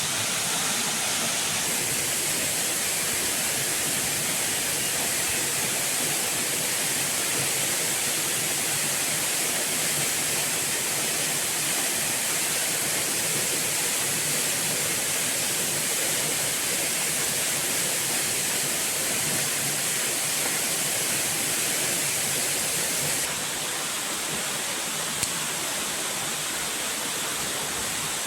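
Steady rush of falling water: an unbroken noise that turns slightly quieter and duller about three-quarters of the way through, with one small click near the end.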